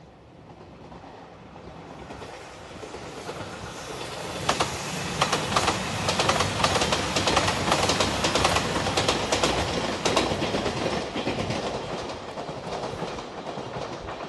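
JR Shikoku 2700 series diesel express train in Anpanman livery passing close by, its wheels clattering rhythmically over the rail joints. The sound grows from a distance, is loudest about halfway through, then fades as the train moves away.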